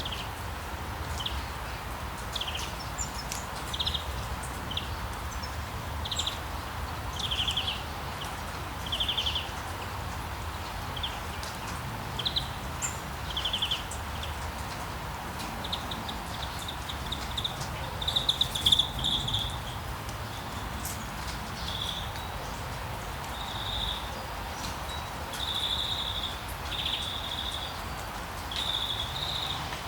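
Steady rain hiss with small birds chirping over it: short high chirps and quick trills repeating every second or so, coming more thickly in the second half.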